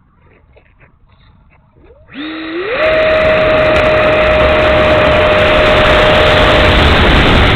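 70 mm electric ducted fan of an E-flite F-16 Thunderbird RC jet spooling up about two seconds in: a whine that rises in two quick steps, then holds at a steady high whine over loud rushing air.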